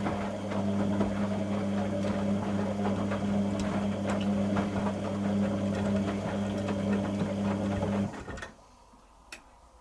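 Beko WTG620M1 washing machine's pump running with a steady mains hum and a crackly rattle, cutting off abruptly about eight seconds in, followed by a single click.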